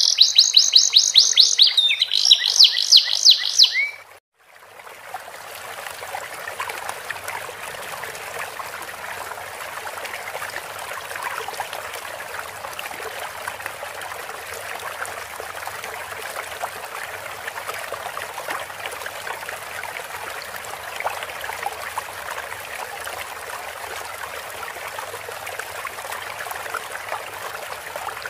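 A canary, taught the song of the sikatan londo, sings a fast trill of repeated high notes that cuts off about four seconds in. A steady trickle of running water follows for the rest, the water-therapy interlude played between bouts of song.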